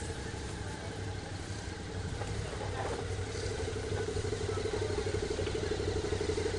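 Motorcycle engines idling steadily with an even, fast pulse, getting a little louder about three seconds in.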